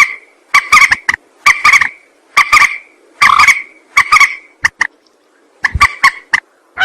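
Recorded lure calls of a mandar (a rail), repeated in quick bursts of about two a second, with a brief break about five seconds in.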